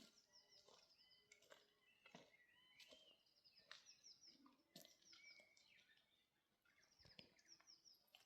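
Faint wild birdsong: repeated quick runs of high chirps, with a warbling note about three seconds in, and a few soft clicks.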